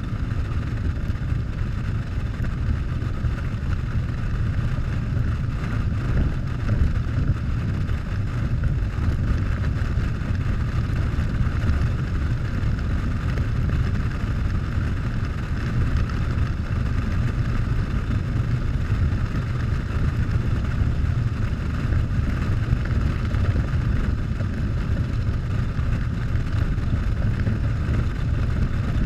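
Harley-Davidson Softail V-twin engine running steadily on a ride, a low, even rumble with no revving or gear changes.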